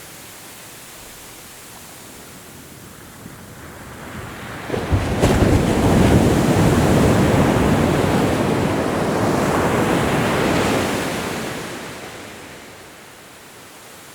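Ocean wave breaking about five seconds in, its surf washing loudly for several seconds, then fading back to the soft steady hiss of the sea.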